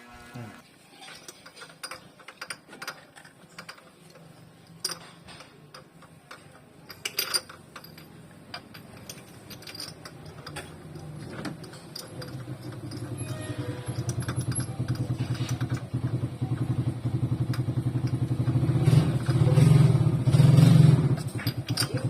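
Scattered light metallic clicks and clinks of hand tools, then a small engine running with a steady pulse, growing louder from about halfway through and loudest near the end.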